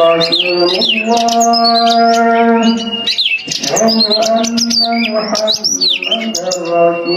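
Oriental magpie-robin (kacer) singing a fast, varied song of sharp rising and falling whistles and clicks. Underneath runs a long-held droning tone with overtones, which breaks off twice.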